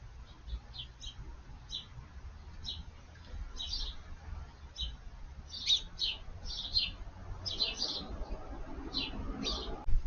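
Birds chirping: short, sharp high notes repeated irregularly, coming more thickly about halfway through, over a low background rumble.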